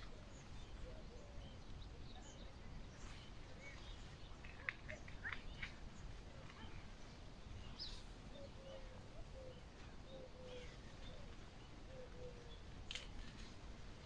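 Small birds chirping now and then, short scattered calls with a brief flurry about five seconds in, over a low steady outdoor rumble.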